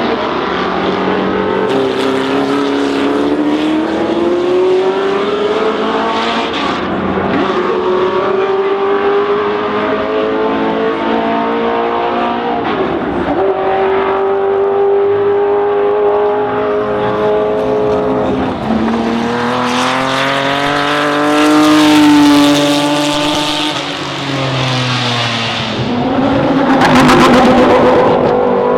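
Historic racing car engines at speed, pitch climbing through the gears and dropping again, with two loud close passes, one about two-thirds of the way through and one near the end.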